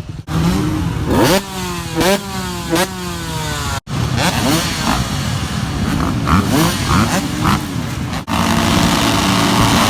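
Motocross bike engine accelerating hard, its pitch climbing and dropping back with each quick gear shift, three times in the first few seconds. The sound breaks off abruptly about four seconds in and again about eight seconds in. Between and after the breaks there is more engine revving, ending in a steadier engine note.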